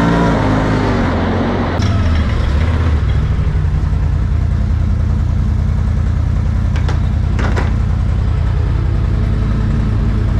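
The Can-Am Outlander 850 XMR's V-twin engine comes down off the revs and settles into a steady idle about two seconds in, with a couple of short clicks later.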